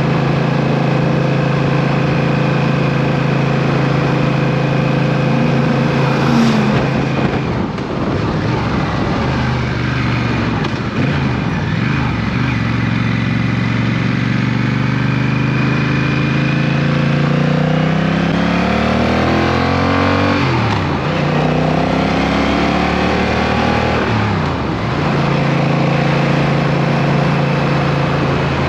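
Motorcycle engine under way, heard on board. It holds a steady cruising note at first. Through the middle its pitch repeatedly falls and rises as the bike slows and accelerates through the gears, then it settles back to a steady note near the end.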